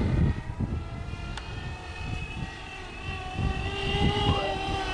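A steady engine drone made of several held tones that drift slowly in pitch, over a gusty low rumble.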